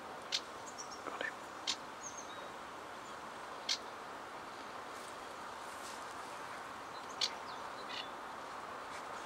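Reed warbler giving short, sharp call notes, about half a dozen scattered irregularly, over a steady background hiss.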